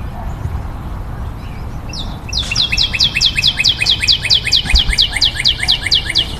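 A wild bird singing a fast, even series of short falling notes, about six a second, starting about two seconds in and stopping just before the end, over a low steady rumble.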